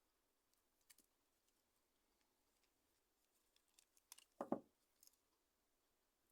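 Faint, scattered small clicks of a phone's parts and tools being handled, with one brief louder knock about four and a half seconds in.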